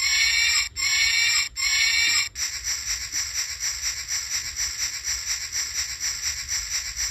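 Lionel train watch's tiny speaker playing a steam locomotive sound effect: three short whistle blasts, then quick, even chugging at about five puffs a second.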